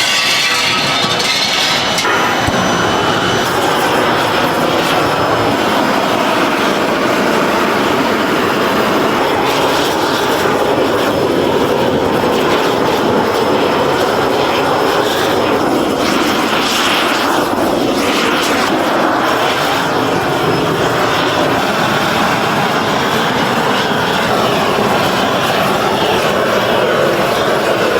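Loud, steady industrial machine noise, with a few sharp clicks near the start.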